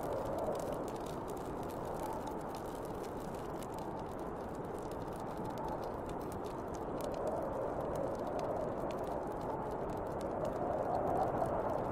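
Snowstorm wind blowing steadily, with gusts swelling now and then and building near the end, over the light crackle and pop of a wood fire.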